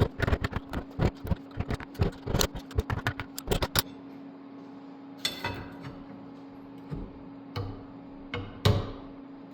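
Hammer blows on metal, knocking a part off: a quick run of taps, about five or six a second, for the first four seconds, then a few spaced, heavier strikes that ring briefly. A steady hum runs underneath.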